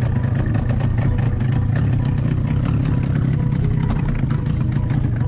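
Boat engine running steadily, a loud low hum with a fast, even pulse.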